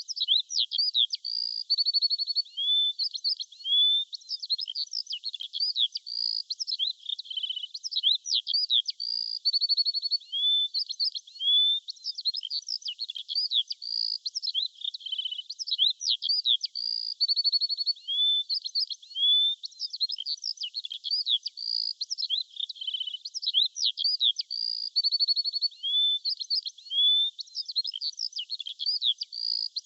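Songbirds chirping, with high whistled notes and quick trills crowding over one another; the same phrases recur every few seconds.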